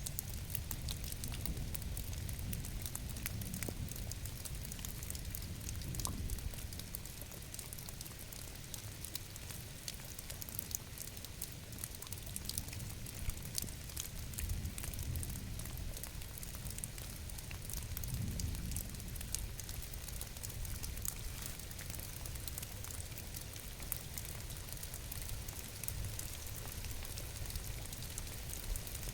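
Steady rain, with many small drop ticks over an even hiss and a low rumble underneath that swells and eases slightly.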